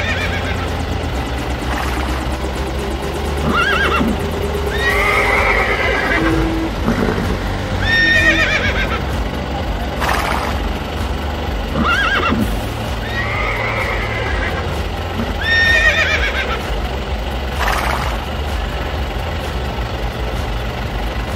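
Dubbed-in horse whinnies, about nine calls spaced every couple of seconds, over a steady low hum.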